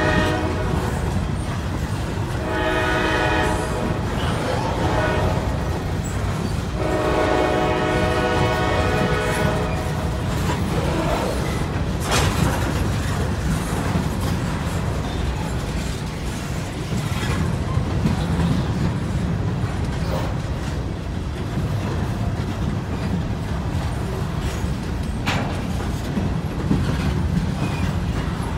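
Empty covered hopper cars of a Norfolk Southern grain train rolling past close by: a steady rumble with wheel clatter and an occasional sharp clank. A locomotive horn sounds three times in the first ten seconds, the third blast the longest, ending about ten seconds in.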